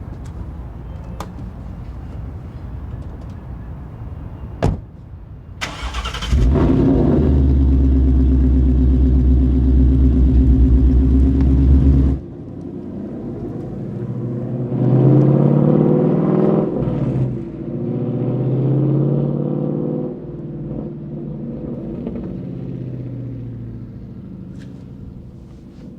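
A car engine starts with a short burst about six seconds in and runs loudly and steadily for several seconds, then cuts off suddenly. After that, an engine's pitch rises and falls several times as it revs and accelerates.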